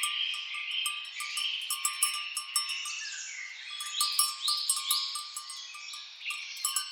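Birds calling and singing together: a rapid run of short ticking notes over overlapping chirps and quick falling whistles.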